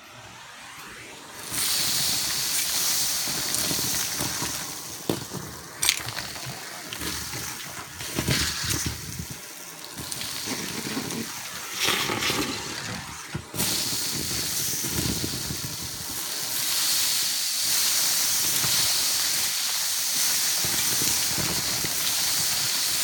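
Homemade central vacuum, powered by a Miele Titan vacuum, running and sucking up a mess through its hose. It is a steady rushing hiss that comes up about a second and a half in, with scattered rattles of debris.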